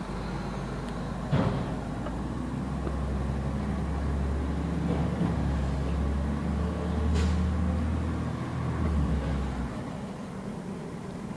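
Garbage truck engine running with a steady low drone, with a sharp metallic knock about a second and a half in and a short hiss about seven seconds in. The drone drops away near the end.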